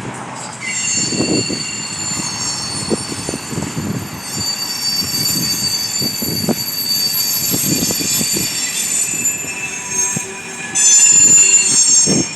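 A slow-moving train rolling past, its steel wheels squealing in several high, steady tones over a low rumble and knocking. The squeal sets in about a second in and gets louder near the end. The train is slowing to a crawl of around 9 mph.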